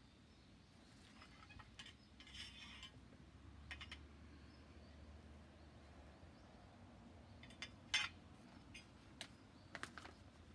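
Faint scattered light clicks and clinks, a few in quick clusters, the sharpest about eight seconds in, over low background hum.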